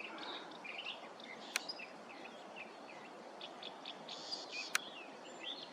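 Small birds chirping and calling over a steady outdoor hiss, with two sharp clicks, about a second and a half in and again near the end.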